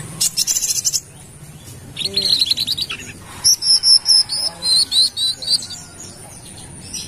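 Brown-throated sunbird (kolibri kelapa) singing: three bursts of rapid, high, sharp chirps and trills, with short pauses between them.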